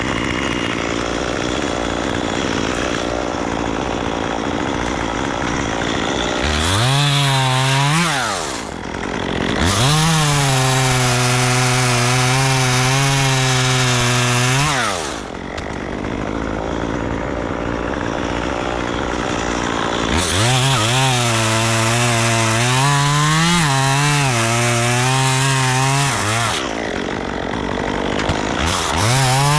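A chainsaw cutting tree wood: its engine twice rises to a steady high speed and holds there for several seconds before dropping away, with stretches of loud chain-and-wood noise in between.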